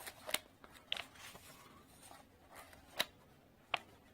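Pages of an old book being turned, with four short crisp paper flicks and rustles.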